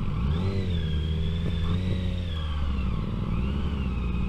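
Honda CBR650F sport bike's inline-four engine running under way, its revs rising and falling unevenly with the throttle.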